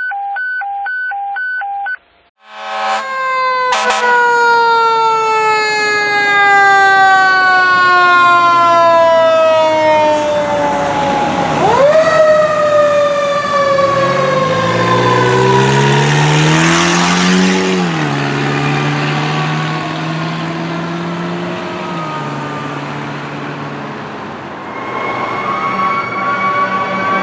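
A repeating electronic beep stops about two seconds in. Then a fire truck's Federal Q mechanical siren wails in, its pitch gliding slowly down as it coasts. It is spun up sharply again about halfway through and winds down once more, over a revving diesel engine. Near the end a second siren wails, rising and falling in pitch.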